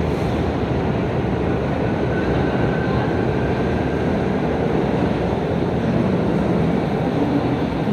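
New York City subway train running on the rails, a loud steady rumble of wheels and cars, with a faint brief high whine about two seconds in.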